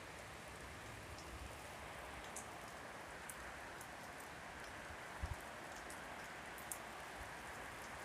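Steady rain falling, an even hiss with scattered ticks of single drops. A dull low thud comes twice in quick succession about five seconds in.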